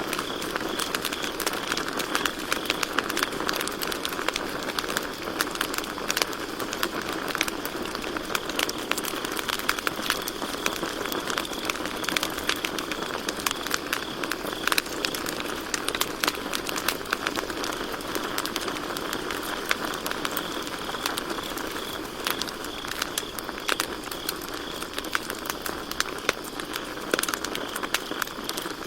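Campfire crackling and popping steadily with frequent sharp snaps, over a continuous high chirring of crickets.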